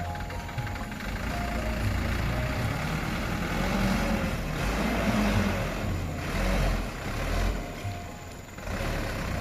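Dump truck's diesel engine running, its pitch swelling up and down a little around the middle, with a brief dip in level near the end.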